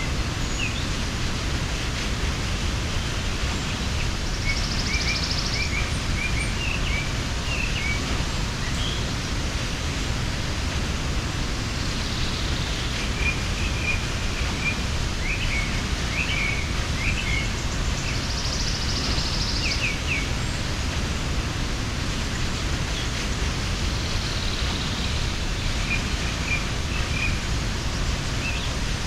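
Steady rushing of a mountain waterfall, with birds chirping in short clusters of calls several times and a high buzzy call now and then.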